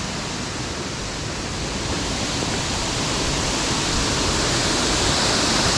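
Rushing water of a steep mountain stream cascading over small falls and chutes: a steady wash that grows gradually louder over the last few seconds.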